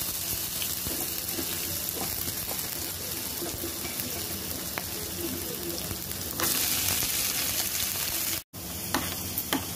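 Soaked chana dal (split Bengal gram) frying in hot oil in a pan, a steady sizzle that grows louder about two-thirds of the way through. Near the end the sound cuts out briefly, then a few light clicks sound over the sizzle.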